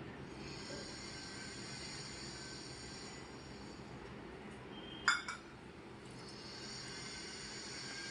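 Quiet sounds of a person eating a rice meal, with a sharp clink of dishware about five seconds in, followed by a second, smaller knock.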